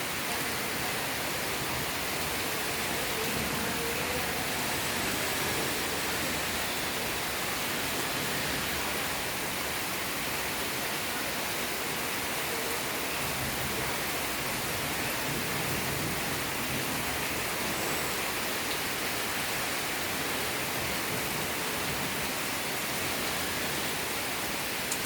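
Heavy monsoon rain falling steadily: a dense, even hiss of downpour with no let-up.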